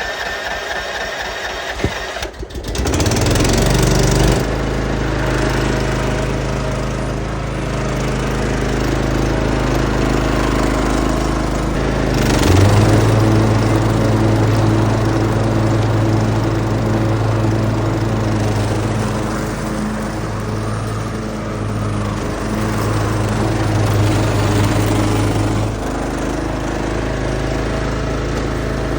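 Troy-Bilt Mustang zero-turn mower engine cranked by its electric starter, catching after about two seconds and then running steadily, louder from about twelve seconds in. It starts now that the blown 20 amp fuse has been replaced.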